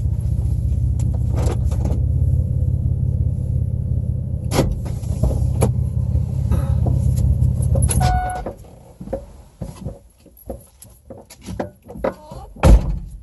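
Car engine idling, heard from inside the cabin, switched off about eight seconds in with a short electronic beep. Then scattered clicks and rustling as the driver gets out, and a car door slamming shut near the end, the loudest sound.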